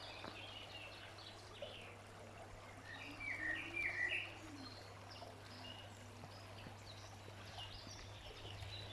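Songbirds chirping and singing over the faint, steady rush of a small stream, with a run of falling chirps about three to four seconds in.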